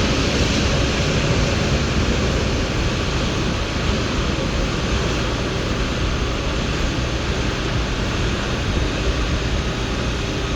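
A train running on the station tracks: a loud, steady rumble with a low hum underneath, easing off slightly toward the end.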